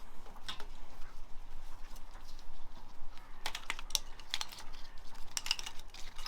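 Clusters of light, sharp clicks and taps of small hard parts being handled on the engine, in quick groups about three and a half, four and a half and five and a half seconds in.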